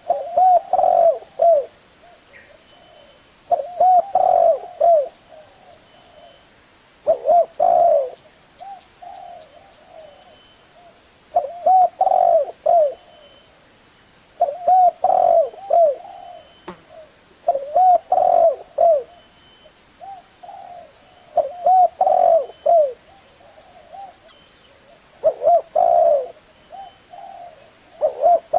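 Spotted dove cooing: a phrase of several low coos, repeated about every three to four seconds, nine times over.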